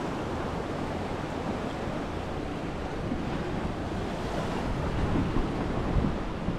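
Steady rushing of sea surf and wind, with wind buffeting the microphone and a couple of slightly louder gusts near the end.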